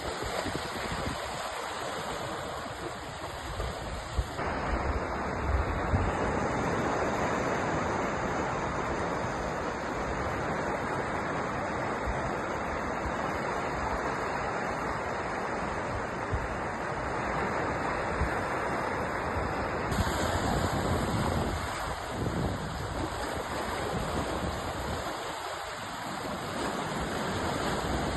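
Sea waves breaking and washing in a continuous surf, swelling and easing in loudness.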